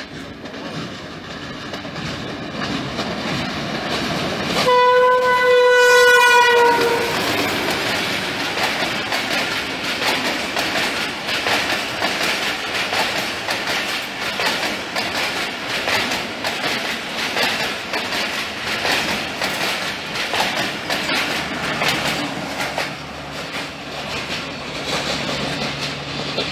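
Passenger coaches rolling past close by, their wheels clattering steadily over the rail joints. About five seconds in, a diesel locomotive horn gives one long blast of about two seconds, dipping slightly in pitch as it ends. A low steady hum joins near the end.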